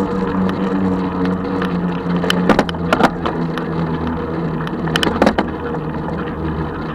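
A 36-volt electric bike's motor hums steadily while riding, with wind and road noise. Sharp knocks or rattles come in two pairs, a little past two seconds in and again about five seconds in.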